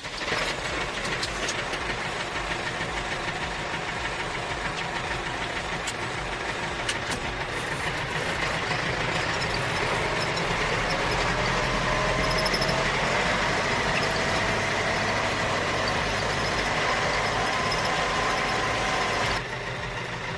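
A motor running steadily, with a wavering tone in the middle; its level drops about a second before the end.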